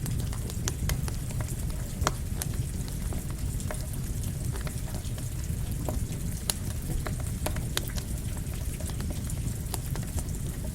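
Campfire crackling with frequent, irregular sharp pops over a steady rush of rain.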